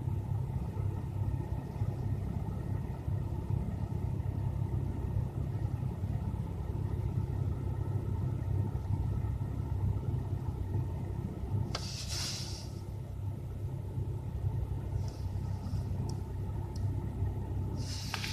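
Lada Granta's VAZ-21126 1.6-litre 16-valve four-cylinder engine idling steadily after a winter cold start. A brief hiss is heard about twelve seconds in and again near the end.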